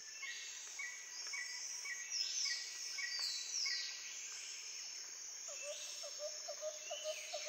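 Rainforest ambience of insects and birds calling. A high chirp repeats about twice a second with sweeping higher calls over it, and a quick run of lower repeated notes starts a little past halfway.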